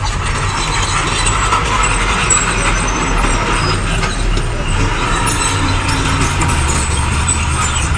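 Diesel engines of heavy earthmoving machinery running steadily under load, with a continuous low drone and some faint high squeaks mixed in.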